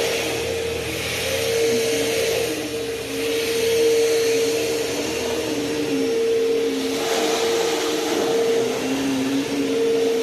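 Bissell CleanView Helix 82H1 vacuum cleaner running: a steady high motor whine over rushing air, with the air noise swelling and easing every few seconds.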